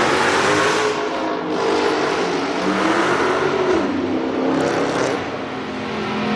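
Car engine revving hard, its pitch falling and climbing again midway.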